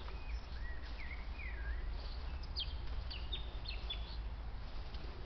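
Small birds calling: a string of short chirps and whistled notes that slide up and down, over a steady low rumble.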